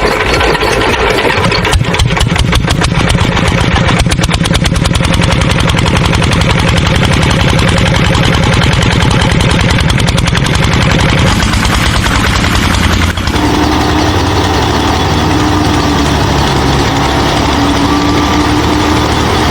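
An engine running with a fast pulsing beat. About thirteen seconds in, the sound changes abruptly to a steadier hum with a whine over it.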